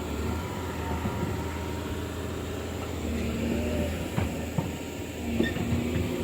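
Diesel engine of heavy earthmoving machinery running steadily, with a steadier tone joining about three seconds in and scattered metallic clanks and knocks in the second half.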